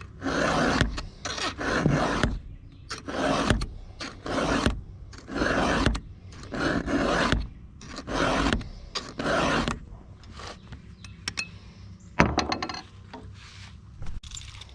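Hand file rasping over chainsaw chain cutters in steady strokes, about one a second. The strokes stop about ten seconds in, with a few light clicks and one more stroke near the end.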